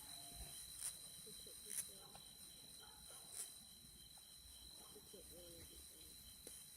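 Near silence with a faint, steady, high-pitched insect trill and a few faint clicks in the first half.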